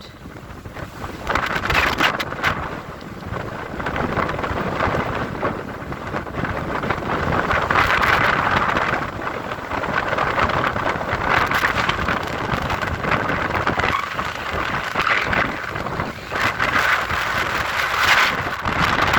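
Strong wind blowing in gusts across the microphone, a loud rushing noise that swells and eases every few seconds.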